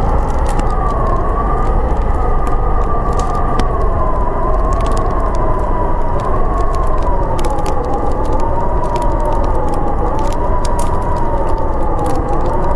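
Blizzard wind howling in a wavering whistle that slowly rises and falls, over a steady low rumble. The small sharp pops of a crackling wood fire sound throughout.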